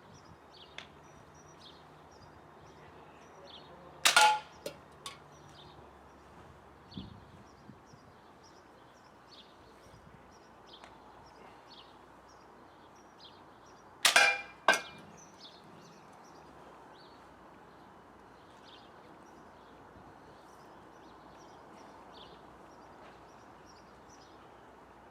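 Slingshot pistol firing 9mm steel ball bearings at empty cans, twice about ten seconds apart: each shot is a sharp crack with a brief metallic ring, followed within half a second by one or two lighter clicks.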